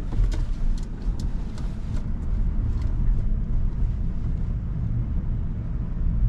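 Steady low road and tyre rumble inside the cabin of a moving 2023 Rivian R1S electric SUV. A run of light, even ticks, about two to three a second, stops roughly three seconds in.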